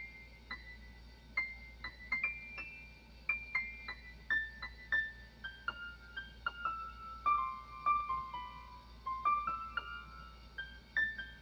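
Piano keyboard played one note at a time: a high, wandering single-line melody of struck notes that ring and fade, about two notes a second.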